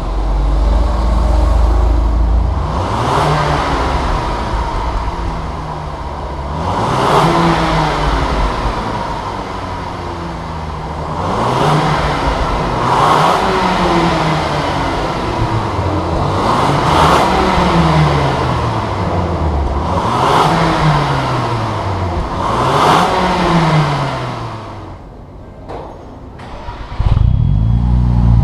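Volkswagen Bora GLI 2.0 turbo four-cylinder engine, breathing through a Borla cat-back exhaust, revved about seven times. Each rev climbs and falls back, and the engine quietens near the end.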